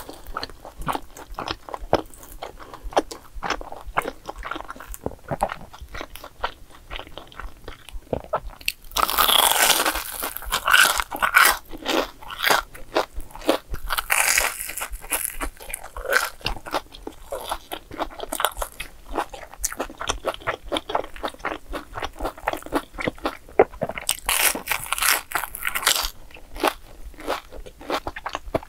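Close-miked biting and chewing of a crunchy breadcrumb-coated fried mozzarella cheese ball, with loud crunches about nine seconds in, again around fourteen seconds and about twenty-four seconds in, and steady wet chewing clicks between.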